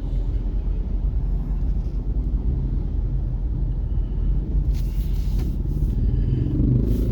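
Rush-hour road traffic: a steady low rumble of vehicle engines, with a brief rushing hiss about five seconds in and again near the end.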